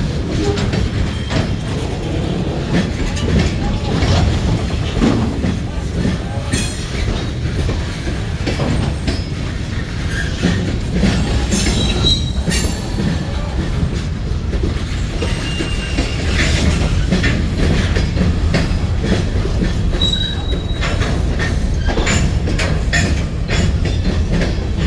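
Train cars rolling past with a steady low rumble and irregular knocking of wheels on the rails, broken a few times by short, high wheel squeals.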